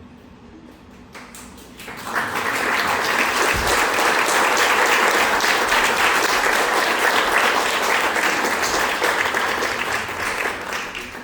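Audience applauding. It starts about a second in, swells quickly, holds, then tapers off near the end.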